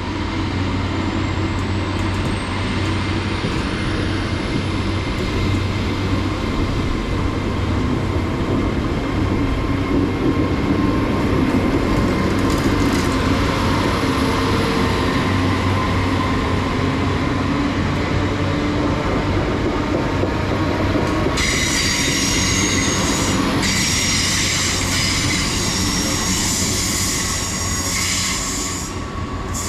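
Hitachi Class 802 bi-mode train pulling away under its underfloor diesel engines, with a steady low drone that sounds rough ('don't sound good'). A faint high whine rises over the first few seconds, and from about twenty seconds in there are several seconds of high-pitched squealing.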